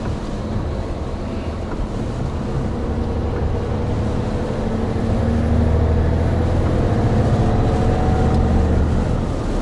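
Hino Profia heavy truck running at speed on a wet expressway: a steady diesel drone mixed with road noise. About halfway through it grows louder, and the engine tones rise slightly in pitch.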